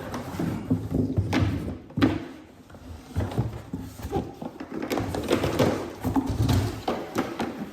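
Hard plastic parts of a Griot's Ultimate Car Wash Bucket 2.0 being handled and fitted: a busy run of knocks, clicks and rattles, with the sharpest knock about two seconds in.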